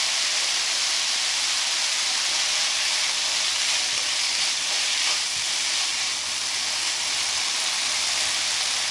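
Julienned potatoes and sliced onion sizzling in hot oil in a frying pan as they are stir-fried with a wooden spoon: a steady frying hiss.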